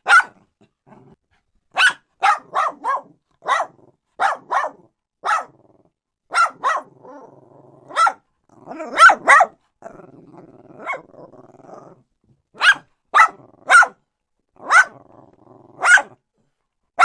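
Dog barking: about twenty short, sharp barks, some single and some in quick pairs and threes, with a low growl between barks in the middle and near the end.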